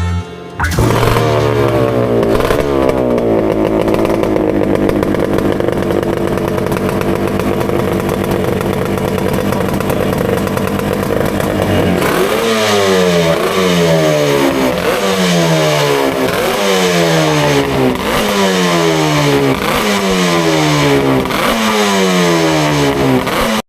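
Vintage two-stroke motocross motorcycle engine running, then revved in repeated throttle blips from about halfway through, the revs jumping up and falling away about every second and a half.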